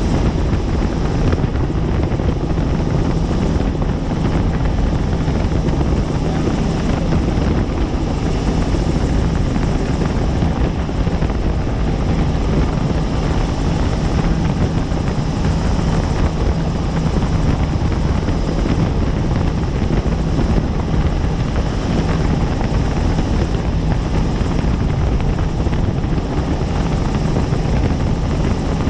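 Helicopter in flight, heard from the passenger cabin: a loud, steady drone of rotor and turbine with a constant low hum.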